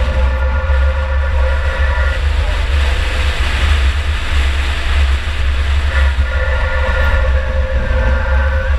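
2004 Chevy Impala enduro car's engine running steadily, heard from inside the car under a heavy low rumble. A steady whine over it drops away for a few seconds in the middle and comes back.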